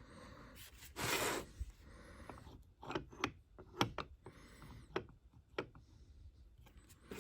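Workshop handling noise: a short scrape about a second in, then a string of light clicks and knocks as metal parts are handled.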